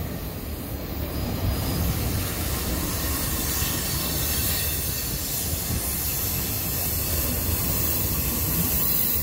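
Double-stack container freight cars rolling past on a curve, a steady rumble of wheels on rail with a high hiss that builds after about two seconds.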